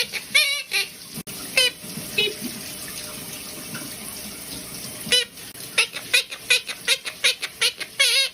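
A parrot giving short, sharp calls two or three times a second, with a few warbling calls about a second and two seconds in. A tap runs in between, and the water is heard on its own from about a second in until the rapid calls start again about five seconds in.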